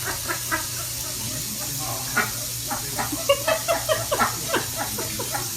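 Many short, pitched animal calls, several a second and some overlapping, over a steady low hum and hiss.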